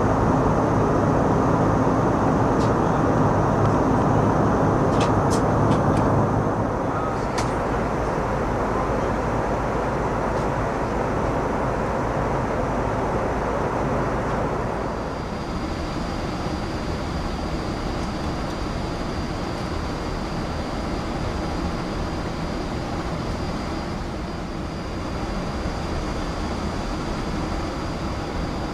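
Steady cockpit noise of an Airbus A330 in flight: a rushing hum of airflow and engines, with a few faint clicks in the first several seconds. The noise drops a step about 7 s in and again about 15 s in, when a thin, steady high tone starts.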